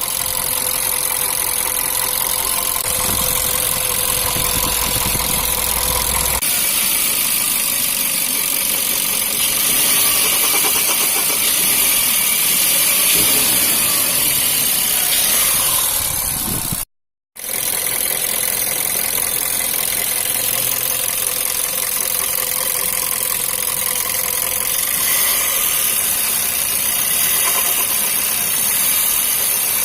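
Skoda Octavia 1.2 TSI (CBZB) four-cylinder turbo petrol engine running, its revs rising and falling, with an extraneous beating noise that the owner says is heard best as the throttle is released. The sound cuts out briefly about halfway through.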